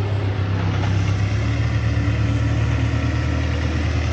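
A motor vehicle's engine running steadily at an even, low pitch.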